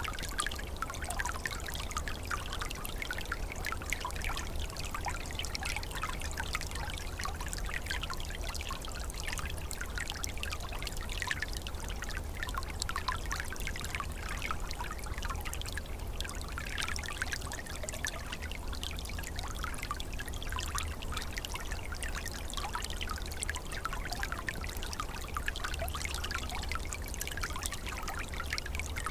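Small forest stream flowing and trickling over stones, with steady babbling and small splashes and a low rumble underneath.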